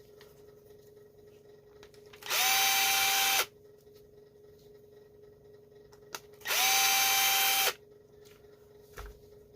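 Small electric drill/driver spinning in two short bursts of about a second each, its motor whirring up to speed and holding steady, to back out the screws of a chainsaw carburetor's metering-side cover.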